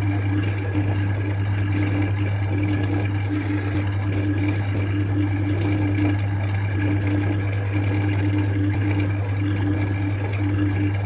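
Wood lathe running steadily: a continuous motor hum with steady higher tones over it.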